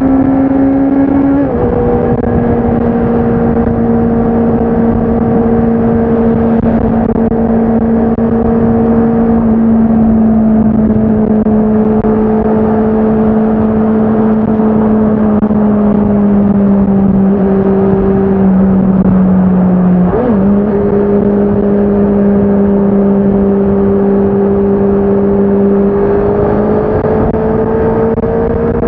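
Honda CBR650R's inline-four engine and exhaust under way at steady, fairly high revs. The pitch drops suddenly about a second and a half in, sags slowly through the middle, dips briefly and recovers about twenty seconds in, then climbs again near the end as the bike accelerates.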